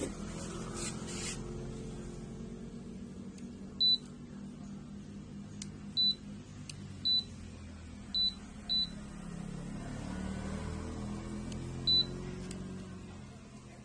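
Washing machine control panel beeping as its buttons are pressed: six short, high single-pitch beeps at uneven intervals, over a low steady hum from the machine.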